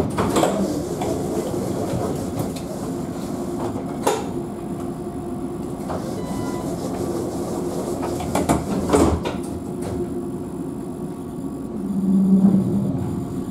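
Alstom Citadis tram running on its rails with a steady rumble, and three sharp clacks from the track spaced a few seconds apart. A brief low steady tone sounds near the end.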